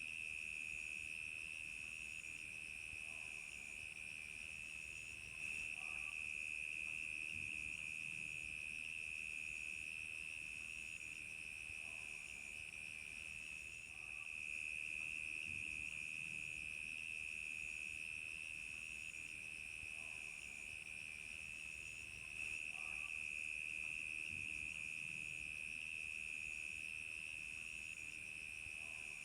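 Crickets chirping in a steady night chorus: an unbroken high trill, with a higher, fainter chirp repeating at an even pace over it.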